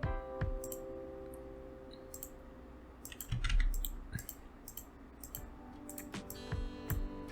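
Computer mouse clicks and keyboard taps, irregular and scattered, over soft background music with held notes.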